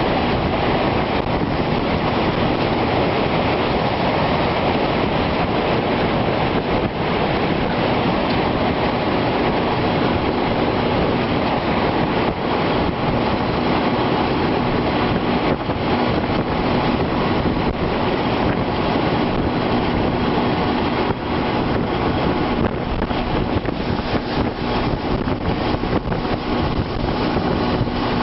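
Strong wind buffeting the microphone: a loud, steady rushing noise with no breaks. In the second half a faint steady hum sits underneath.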